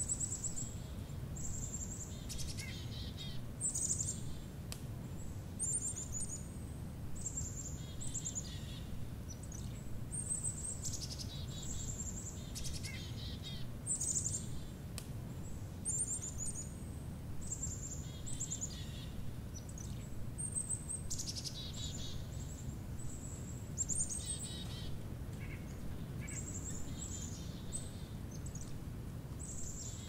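Birds calling over and over: high thin notes about once a second, many running down into lower, buzzier notes, over a steady low rumble of background noise.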